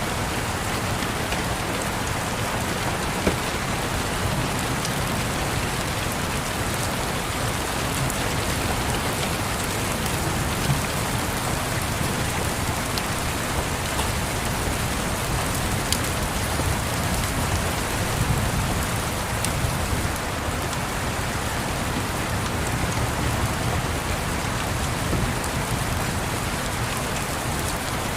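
Steady rain, with a few sharp crackles from a wood fire and a low rumble underneath.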